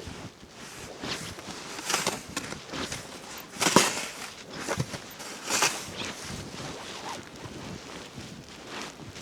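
Footsteps trudging through deep snow, an uneven series of crunches about one a second.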